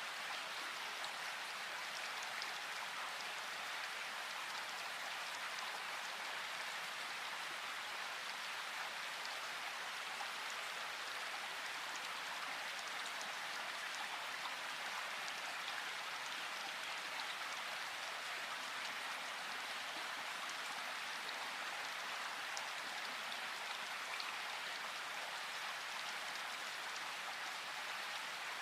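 Steady rain falling, an even hiss of drops with faint scattered drop ticks.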